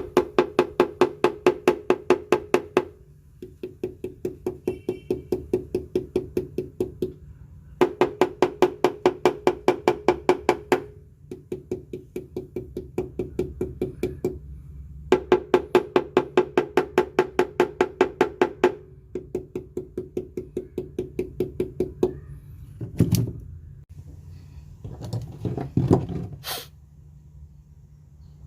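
Rapid knuckle rapping on the Mazda B2200's sheet-metal body panels, about eight knocks a second. Loud, ringing runs alternate with quieter, duller runs, the contrast between bare metal and metal damped by Kilmat sound-deadening mat. A few single knocks and handling sounds come near the end.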